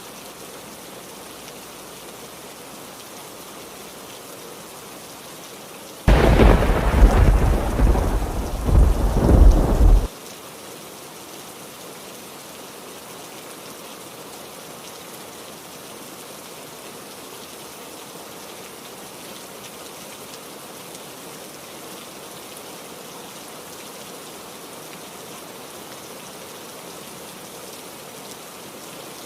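Steady heavy rain. About six seconds in, a loud clap and rumble of thunder bursts in; it lasts about four seconds and cuts off abruptly.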